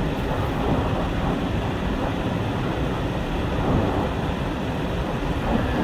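Pickup truck driving on a snowy road, heard from inside the cab: a steady, even rumble of engine and tyres.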